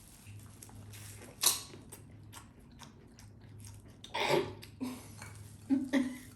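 Close eating sounds: chewing and biting on seafood, with a few short sharp crunches or clicks, the loudest about a second and a half in and again around four seconds in.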